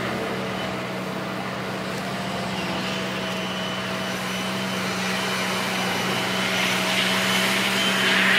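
Diesel engine of heavy earthmoving machinery running steadily with a constant hum, growing somewhat louder near the end.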